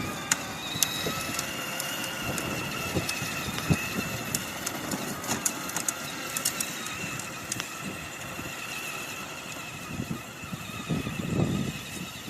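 Motocross bike's engine running, its high, droning pitch drifting slowly up and down, with scattered sharp clicks.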